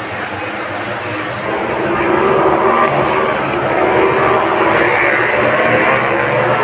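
Engines droning steadily, growing louder about two seconds in, with the pitch creeping up slightly near the end.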